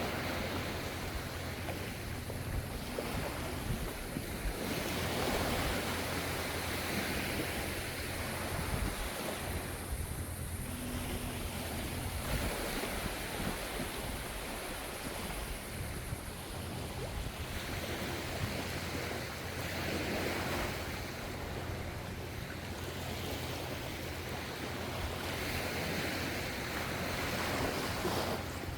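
Gentle ocean waves washing onto the shore, the surf swelling and easing every few seconds over a steady low rumble of the sea.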